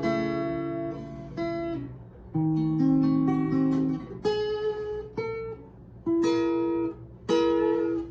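Acoustic guitar playing chords without singing. Each chord is struck once and left to ring, and a new one comes about every second.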